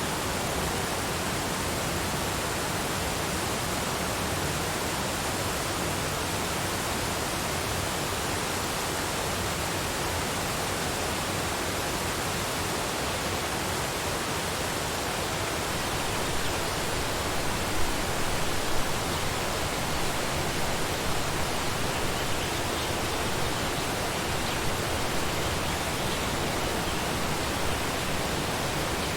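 Waterfall: a steady rush of falling water, with a few brief louder moments in the second half.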